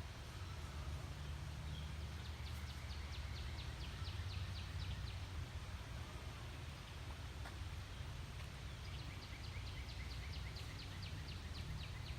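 A songbird singing twice, each song a rapid series of about five short down-slurred whistled notes a second, lasting about three seconds, over a steady low rumble.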